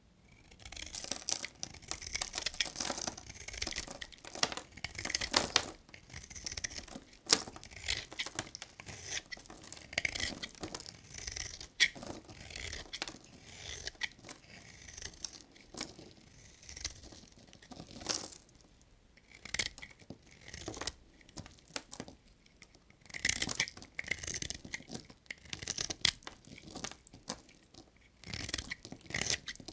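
A knife cutting through bars of dry soap: a run of crisp, crunchy scraping strokes, each about a second long, with short pauses between some of them.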